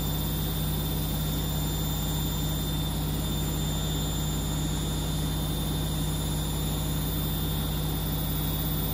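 Siemens front-loading washing machine in its spin cycle, running at a steady speed with an even hum, just before it ramps up to 1400 rpm.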